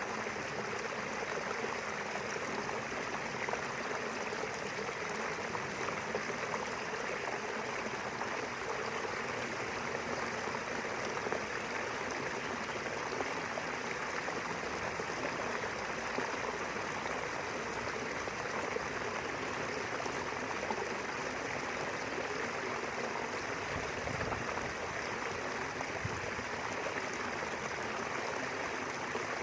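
River water flowing and rushing steadily, with no change in level, and a couple of faint low thumps near the end.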